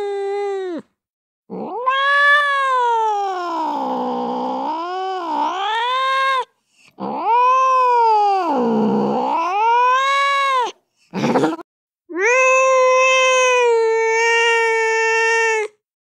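Angry cat yowling: long drawn-out yowls that swoop down and back up in pitch. A brief harsh, noisy burst comes about eleven seconds in, then a steadier, higher yowl near the end.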